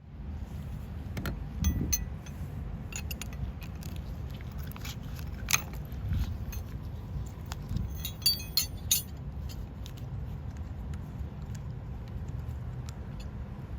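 Metal tools clinking and scraping in irregular clicks, the sharpest about five seconds in and a quick cluster around eight to nine seconds in, over a steady low rumble.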